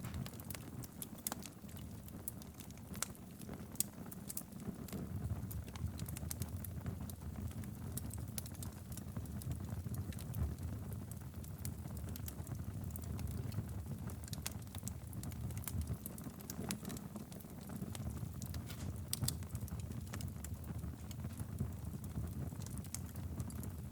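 Wood fire burning steadily in a fireplace, with a low rumble of the flames and frequent irregular sharp crackles and pops.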